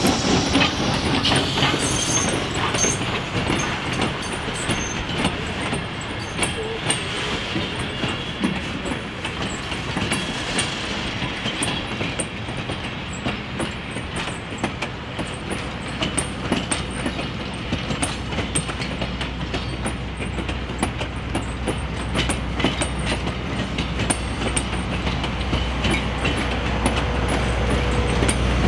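Railroad passenger cars rolling along the track: a steady rumble with wheels clicking and rattling over the rail joints, the low rumble building in the last several seconds.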